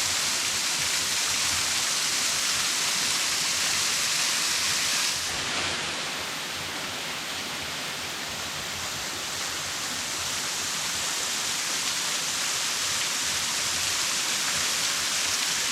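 Waterfall splashing down into a creek: a steady, dense hiss of falling water that eases slightly about five seconds in and then builds back.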